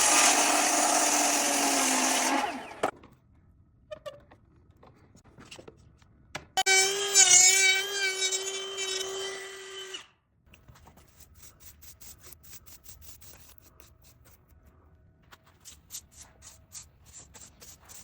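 A power tool running in two bursts: one at the start that cuts off after about two and a half seconds, and a second with a steady hum from about six and a half to ten seconds in. Faint clicks and knocks in the quiet stretches.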